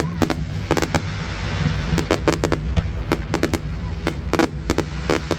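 Fireworks display: a rapid, uneven string of sharp bangs and crackles in clusters, over a steady low rumble.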